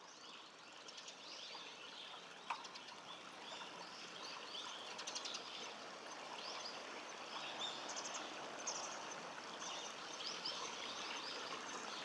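Birds chirping, many short high calls over a faint steady background noise, with a single sharp click about two and a half seconds in.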